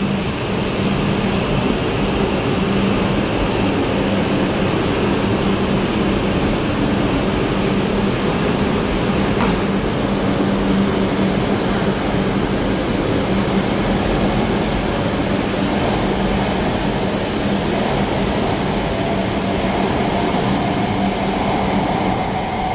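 Hokkaido Shinkansen train pulling out and accelerating along the platform: steady rumble of the cars rolling past, with a motor whine that rises in pitch over the second half.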